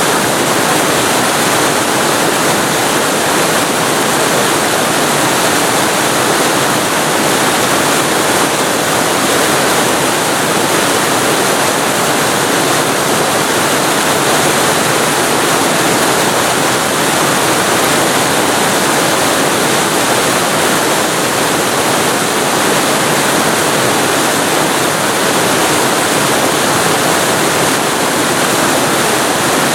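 Waterfall recorded very close to the falling water: a loud, steady rush of water with no breaks or changes.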